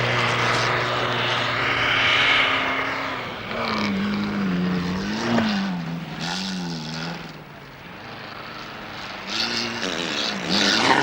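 Rally car engine running at a steady pitch, then revving up and down several times in quick swings, with tyre and road noise; it quietens about seven seconds in and revs up again near the end.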